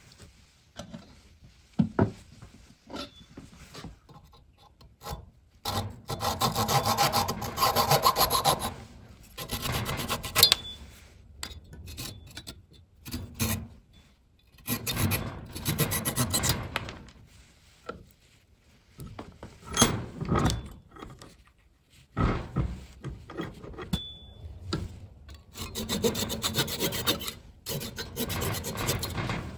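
Wood of a table being sanded by hand: stretches of rubbing strokes across the surface, broken by short pauses.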